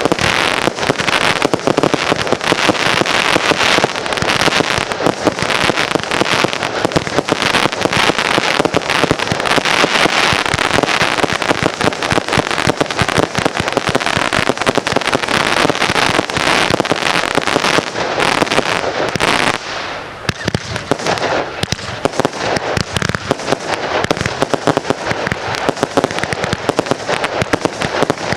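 Consumer firework barrage cakes firing: a dense, rapid string of bangs and crackles that goes on without a break, easing off a little about two-thirds of the way through.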